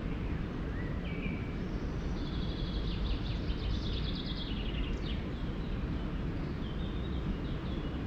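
Songbirds singing: a few short whistled notes, then a fast trill from about two to five seconds in, and a few more short phrases near the end, over a steady low background noise.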